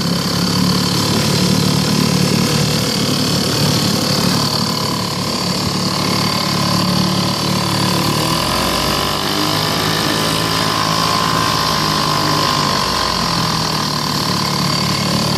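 1972 Sears Ted Williams 5 HP two-stroke outboard motor running steadily in gear, with its water pump working. Its note shifts slightly around the middle.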